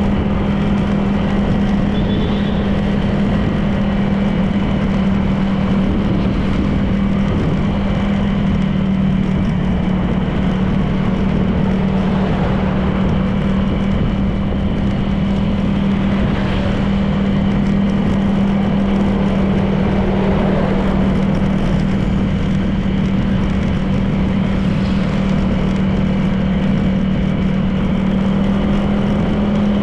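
Honda PCX 160 scooter's single-cylinder four-stroke engine running steadily at a constant cruising speed, with a steady drone and road noise.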